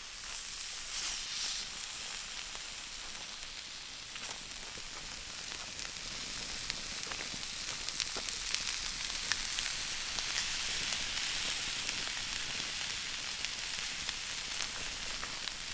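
Food sizzling on a grill hotplate over a campfire: a steady frying hiss dotted with small crackling pops.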